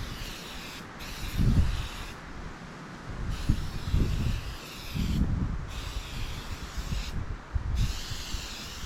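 Wind buffeting the microphone in uneven gusts over a steady hiss.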